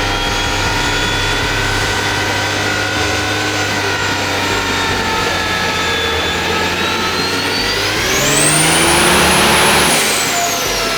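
Built diesel pickup engine with compound turbochargers running hard on a chassis dyno. Its turbo whistle climbs steeply to a very high pitch about eight seconds in, holds for two seconds as the sound swells, then falls away.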